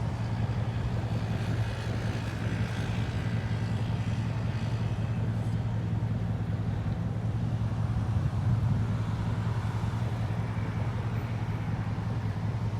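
Steady low drone of a motor vehicle running, engine hum with road or traffic noise.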